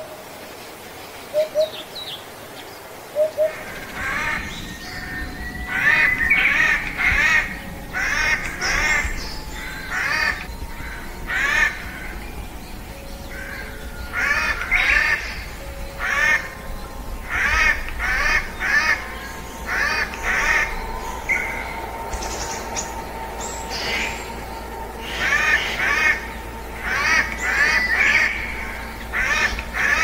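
Wild birds calling. A few short, low paired notes come in the first three seconds. From about four seconds in, a long run of harsh, repeated calls follows in bouts.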